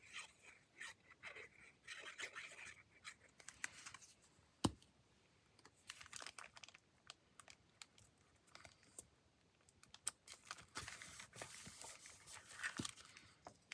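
Tracing paper being torn and handled: faint crackling and tearing rustles in two spells, with a single sharp tap a little under five seconds in.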